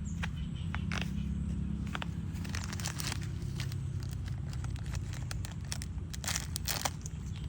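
Close-up eating sounds: crackly crunches and bites of potato cake in scattered clusters, densest about three seconds in and again near the end, over a steady low rumble.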